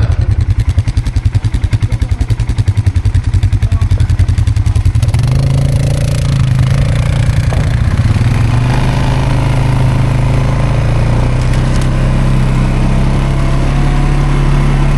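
ATV engine running close by: a rapid, even chugging for about the first five seconds, then a steadier, smoother engine sound for the rest.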